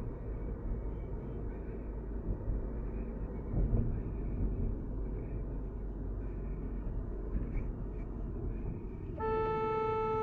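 Steady road and engine noise of a car driving, then a car horn sounds once near the end, held for about a second.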